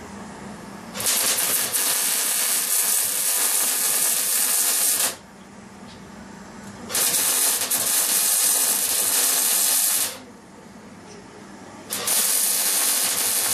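Loud hissing rush of air or gas in three bursts, the first about four seconds long, the next two shorter, with a quieter low hum between them.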